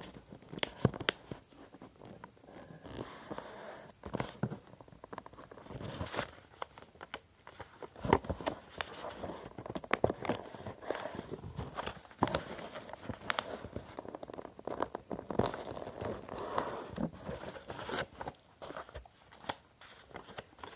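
A sheet of copy paper being folded and creased by hand: irregular rustling and crinkling with many sharp crackles and taps.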